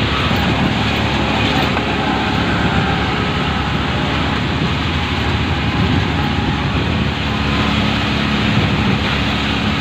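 Auto-rickshaw ride: the small engine running steadily under a constant wash of road and traffic noise.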